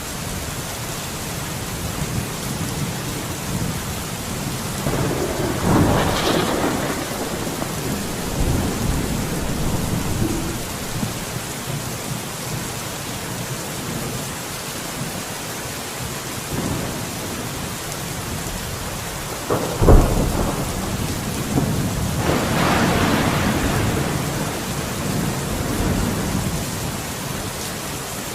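Steady rain with thunder: a rumble swells and fades about five to seven seconds in, then a sharp crack about twenty seconds in is followed by a longer rolling rumble.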